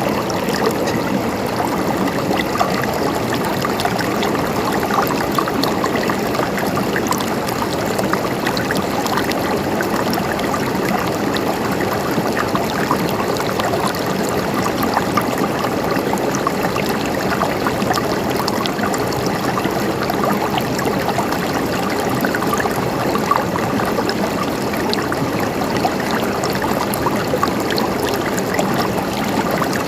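River water flowing over rocks, a steady, even rush with small splashes and gurgles.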